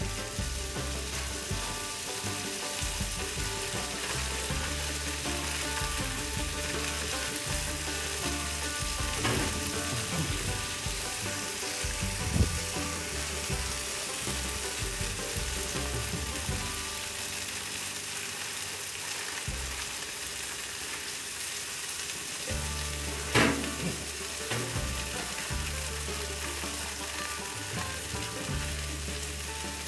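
Stir-fry noodles sizzling in oil on a Blackstone flat-top griddle: a steady frying hiss. A sharp knock comes about twelve seconds in and another about twenty-three seconds in.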